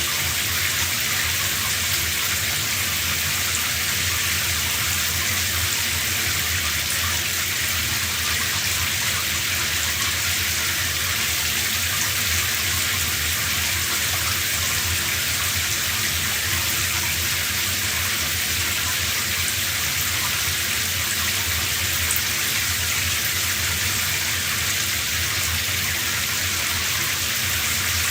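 Shower running steadily: an even spray of water hissing down, with no change in level.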